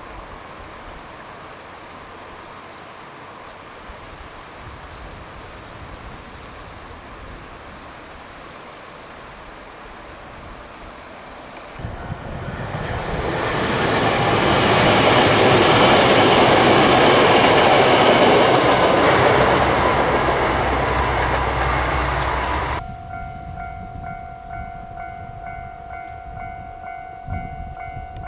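Kyoto Tango Railway KTR001 'Tango Explorer' diesel railcar train passing close by. Its rumble and wheel noise rise suddenly about twelve seconds in, are loudest around the middle and cut off a few seconds later. A steady hiss comes before it, and steady ringing tones come after it.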